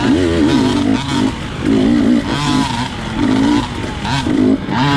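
Dirt bike engine revving up and down in quick bursts as the throttle is worked on and off over tight terrain.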